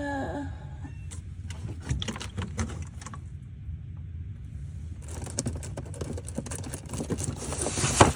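A cat meows briefly at the start. Rattling and rustling follow as cat food is prepared, thickest and loudest from about five seconds in.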